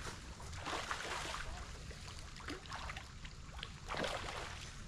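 River water splashing and trickling against a boat, in irregular surges, over a steady low rumble.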